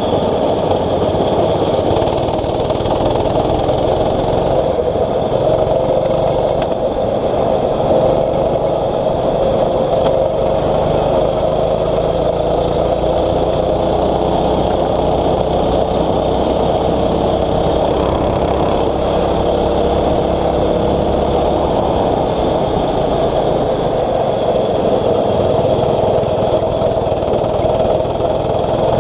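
A 6.5 hp four-stroke kart engine running continuously on track, its note rising and falling with the throttle. A second engine's gliding note is heard alongside it through the middle of the stretch.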